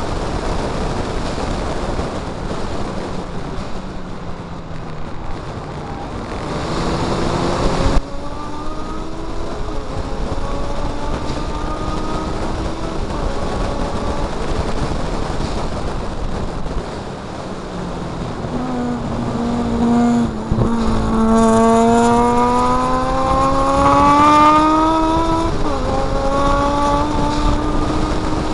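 Mazda MX-5 race car's four-cylinder engine pulling hard, its pitch climbing in long rises broken by sudden drops, about 8 seconds in, around the middle and near the end, over a heavy rush of wind noise on the onboard microphone.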